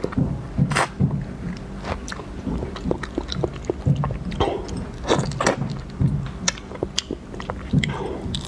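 Close-miked mouth sounds of a person eating shellfish: wet chewing, biting and lip smacks, with irregular sharp clicks several times a second.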